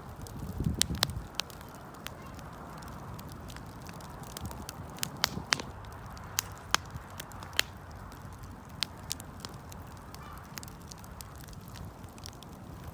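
Wood fire crackling, with a steady low rush of flame and irregular sharp pops, and a brief louder surge about a second in.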